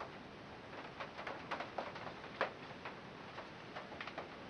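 Light metallic clicks of a hand socket ratchet, coming a few a second at uneven intervals, as a coarse-threaded bolt is worked loose.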